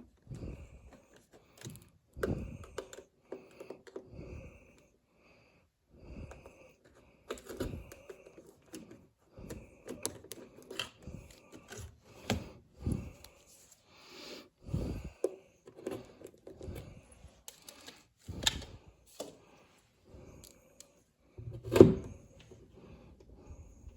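Irregular small clicks, taps and rattles of hands handling a thermostat's plastic parts, wires and tools, with one louder knock near the end.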